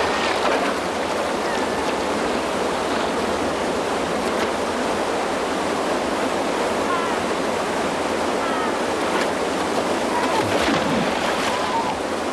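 Waterfall on a salmon river rushing steadily, with a few short, faint high calls over the water noise.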